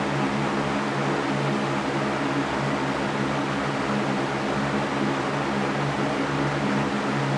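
Electric fan running steadily: an even rush of air with a low steady hum from its motor.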